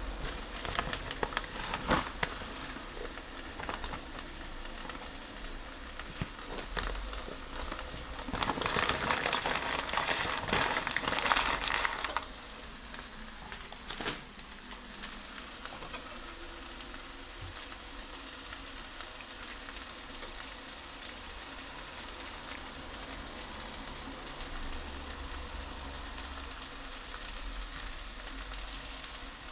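Fajita ingredients frying in a hot pan, a steady sizzle with scattered crackles. About a third of the way in the sizzle turns louder for a few seconds, then settles back to a quieter, even hiss.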